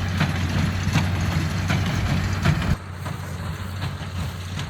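Tractor running steadily while pulling a small square hay baler, with irregular knocks and clatter over the engine hum. The sound drops suddenly in level a little before three seconds in.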